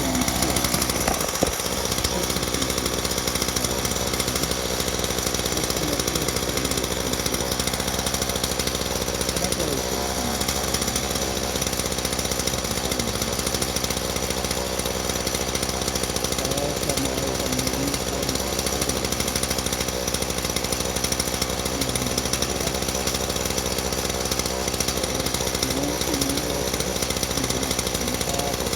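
Ryobi 38cc two-stroke gas chainsaw running steadily at a constant level.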